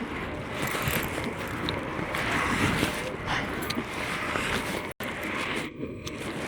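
Skate wheels rolling on pavement with wind buffeting the microphone, a steady rushing noise; the audio cuts out for an instant about five seconds in.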